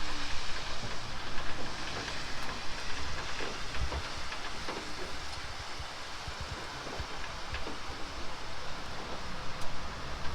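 Tour vehicle on the move: a steady rumble of the ride with a hiss of wind and road noise and a few faint knocks, loudest at the start.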